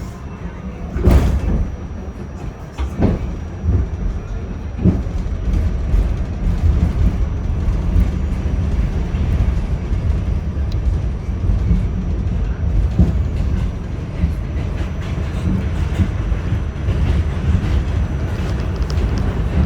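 R46 subway train running between stations: a steady rumble of wheels on rail, with a few sharp clacks in the first five seconds, growing louder as the train gathers speed.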